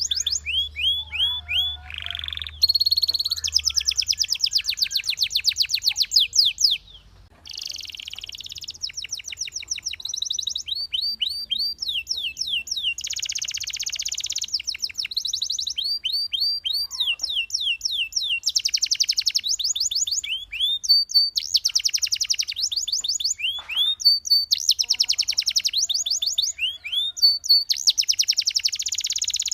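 Belgian canary singing a long song of fast trills: rapid runs of repeated high, downward-sweeping notes, changing from one trill to the next, with a brief pause about seven seconds in.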